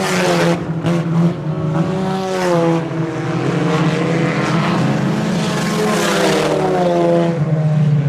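A pack of IMCA Sport Compact race cars running laps on a dirt oval. Their four-cylinder engines rise and fall in pitch as they go through the turns, over a steady drone of engine noise.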